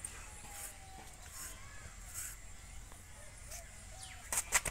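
Faint outdoor bird calls, then three short, sharp, loud calls in quick succession near the end.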